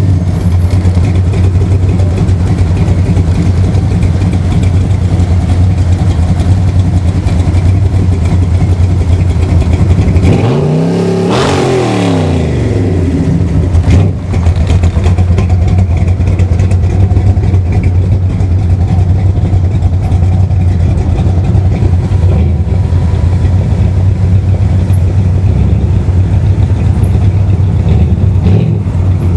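Supercharged V8 in a rat-rod pickup idling loudly and steadily, with one quick throttle blip about eleven seconds in whose pitch climbs and falls back.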